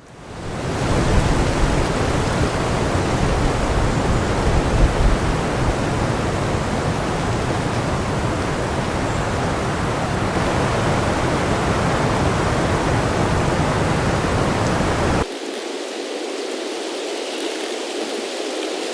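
Wind blowing, a steady rushing noise that fades in at the start. About fifteen seconds in it cuts abruptly to a quieter, thinner wind sound without the low rumble.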